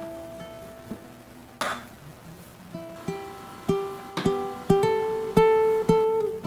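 Plucked string instrument playing a melody of single ringing notes, which come louder and closer together in the second half. A brief noisy rasp sounds about one and a half seconds in.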